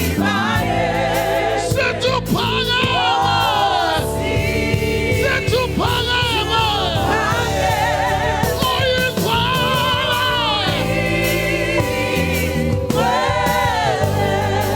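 Gospel choir singing in parts with a lead voice, over instrumental backing with a steady bass.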